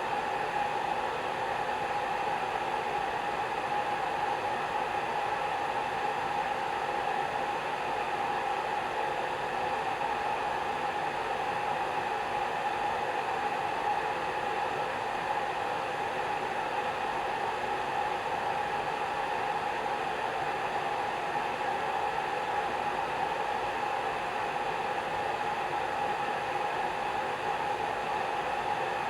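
Hair dryer running steadily: an even, unchanging whoosh of blown air with a steady hum in it.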